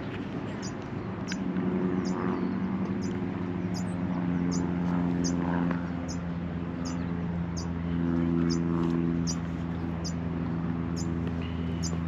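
A small bird giving a short, high call over and over, a little under twice a second, against a steady low hum of engines or traffic.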